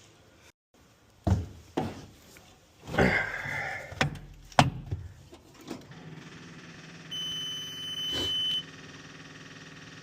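Several knocks and clunks, then a steady electrical hum comes on in the Cat 236D skid steer and a high warning buzzer sounds for about a second and a half: the ignition switched on just before the diesel is cranked.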